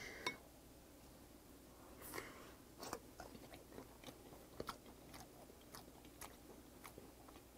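Faint close-up chewing of a peeled soy-marinated raw shrimp, with small wet mouth clicks about every half second from roughly two seconds in.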